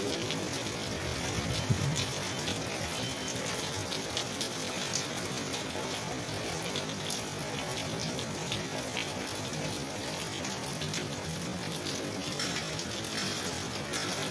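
Steady rain falling: an even hiss, with many small drops ticking on nearby surfaces.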